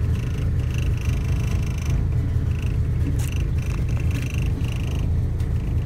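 Honda Civic engine idling, a steady low rumble heard from inside the cabin, with a freshly replaced MAP sensor.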